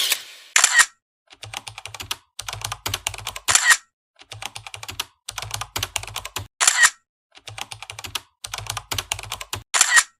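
Rapid typing clicks in short runs, with a brief louder rasp about every three seconds, repeating like a looped typing sound effect.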